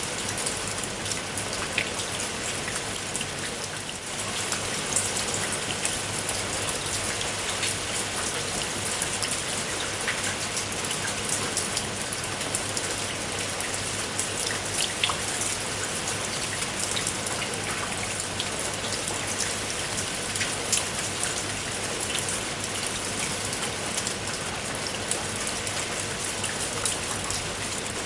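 Steady rain, with many individual drops pattering and ticking sharply on a hard surface over an even hiss of rainfall.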